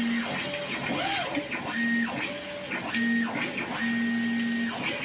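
CO2 laser cutter's stepper motors whining in several short runs as the head moves along the cut path, each run sliding up to a steady pitch and back down as it stops. A steady hiss runs underneath.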